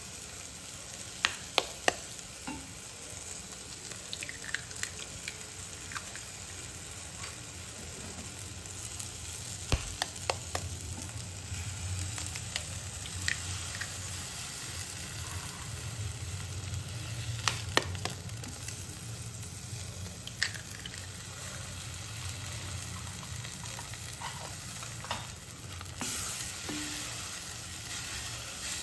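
Onion-tomato masala and eggs frying in oil in a steel pan, sizzling steadily, with scattered sharp taps and clicks from eggs being cracked in and the wooden spatula knocking the pan. The sizzle gets louder near the end as the eggs are stirred in.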